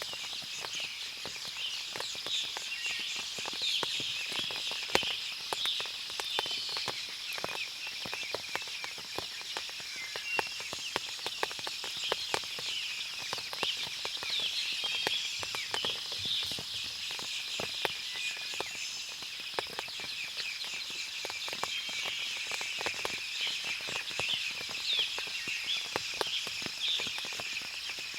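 Forest ambience after rain: many small birds chirping, a steady high insect-like hum, and frequent short taps of water dripping from the trees.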